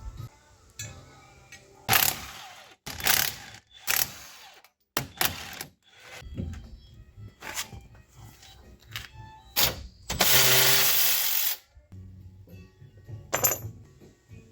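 Hand-tool work on a steering rack boot: a series of sharp knocks and scrapes, including mallet taps, as the old boot is worked off the rack, with a steady rush of noise lasting about a second and a half about two-thirds of the way through.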